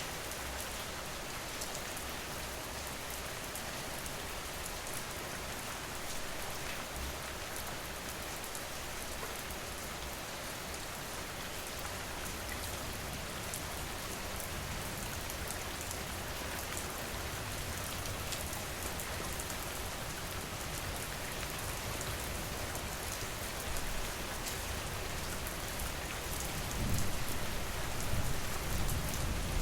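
Steady rain falling and pattering on surfaces, with many fine drop ticks. A low rumble swells near the end.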